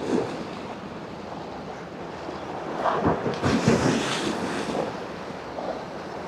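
Wind buffeting the microphone over the wash of harbour water, swelling into a louder gust about three seconds in.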